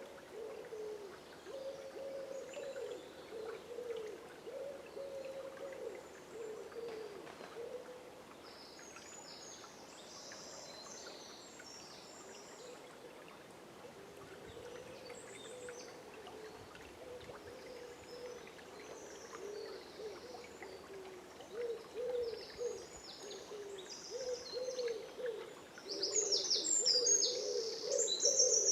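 Dawn forest birdsong: a low hooting call repeated over and over, with small songbirds chirping high above it in short spells, loudest near the end.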